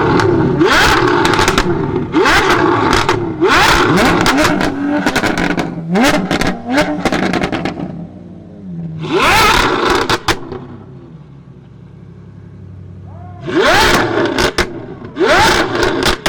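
A supercar's engine being revved hard in repeated short blips, about eight in all, each rising in pitch. Sharp exhaust crackles and pops follow each rev as it drops back. There is a quieter spell about two-thirds of the way through.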